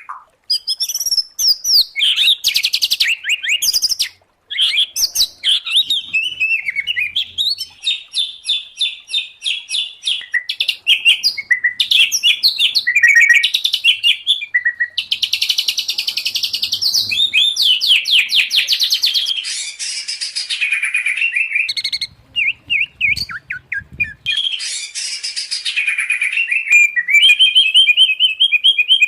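Songbirds singing from a mixed recording of white-rumped shama, oriental magpie-robin and greater green leafbird: loud, fast-changing phrases of sweeping whistles, rapid trills and buzzy notes, with a few brief breaks.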